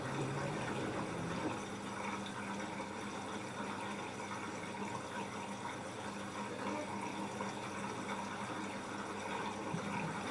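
LG F10A8HDS5 front-loading washing machine mid-cycle: steady water running and sloshing inside the drum, with a faint steady hum.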